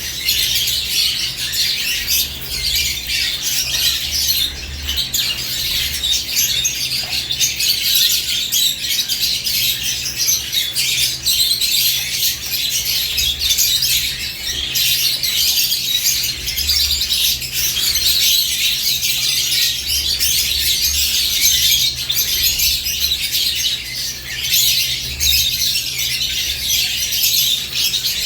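A flock of caged lovebirds chattering: a dense, unbroken stream of shrill chirps and squawks from many birds at once, over a faint low hum.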